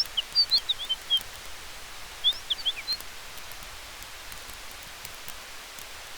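Steady hiss of forest-night ambience with faint scattered crackles from a campfire, over which a bird gives two quick bursts of short, high chirping notes in the first three seconds.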